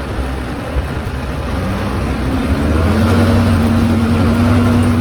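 A vehicle engine running, with a steady hum. About three seconds in it picks up revs and gets louder, then holds steady.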